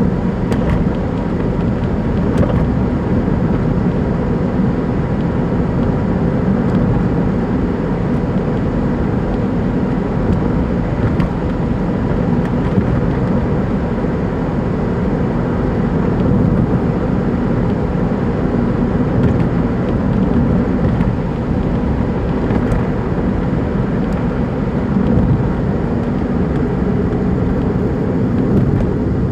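A Daihatsu Move Custom RS (L175S) running with a steady, noisy drone. Its engine mount bushing is torn, which is taken to be the cause of the louder engine noise and the knocking.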